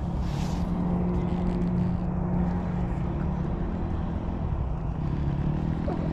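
Dirt bike engine running steadily at a low, even speed, with a rough hiss of noise around it.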